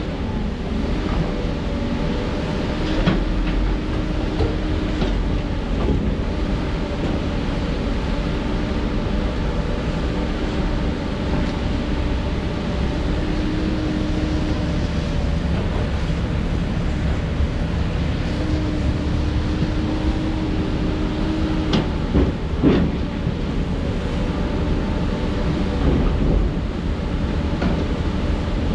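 Heavy diesel earthmoving machinery running steadily, with a pitched whine that comes and goes and a few sharp knocks, the loudest about two-thirds of the way through.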